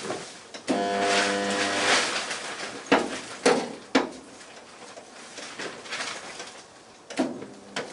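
Resistance spot welder firing: a steady electrical buzz with a flat, even pitch for about a second and a half, then several sharp metallic clicks and knocks as the welder's arms are worked on the Mini's floor panel.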